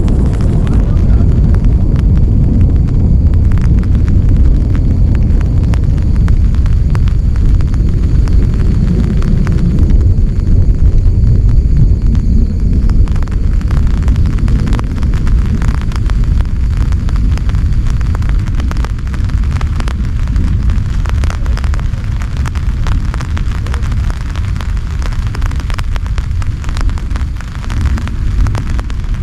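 Heavy rain falling, a dense patter of close drops over a steady low rumble. The drop ticks grow sharper and denser in the second half as the rumble eases a little.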